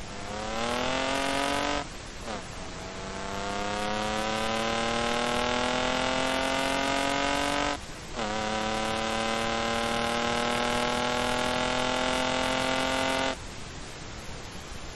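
Engine-swapped BMW E28 accelerating hard through the gears. The engine note climbs steeply, drops briefly at an upshift about two seconds in, then climbs more slowly. It shifts again about eight seconds in, then rises only slightly before the engine sound cuts off abruptly, leaving a steady hiss.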